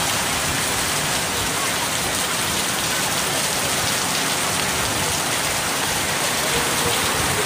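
Heavy rain pouring steadily onto a concrete alley: an even, unbroken hiss of a downpour.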